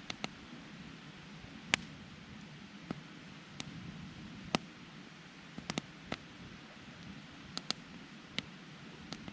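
Wood fire crackling: sharp, irregular pops, about a dozen, some in quick pairs, over a low steady noise.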